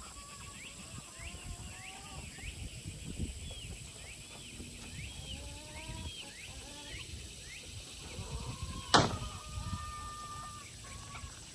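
Young chickens peeping, short high arched calls several times a second, with lower calls beneath them. A single sharp knock about nine seconds in.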